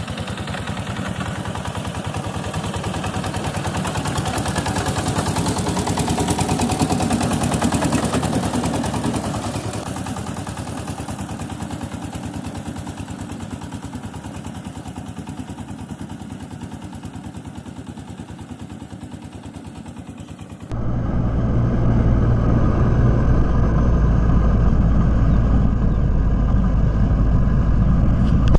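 Engine of a two-wheel walking tractor running with a fast, even pulsing beat. About three-quarters of the way through it cuts abruptly to another, louder engine with a deep steady hum.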